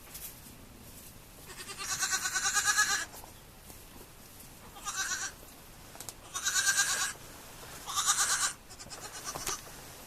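Goat kids bleating: four high, wavering calls, the first and longest a little over a second long.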